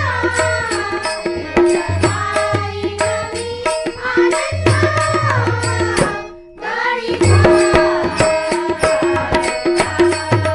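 Marathi devotional bhajan music: a tabla beat under a gliding melody line. The music drops away briefly about six and a half seconds in, then resumes.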